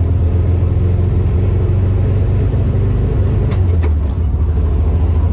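Carbureted car engine running rough under way, a steady low drone with two sharp clicks a little past halfway; the owner suspects dirt in the carburetors is making it sputter.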